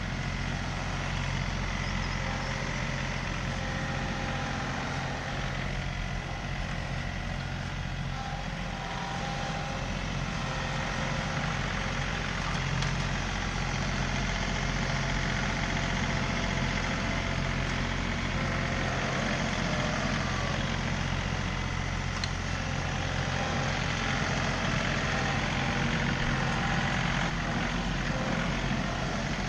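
John Deere 3038E compact tractor's diesel engine running steadily, a little louder in the second half.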